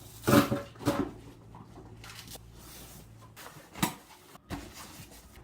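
A few short knocks and clatters over a low steady hum: two near the start, one about a second in, and two more near the end.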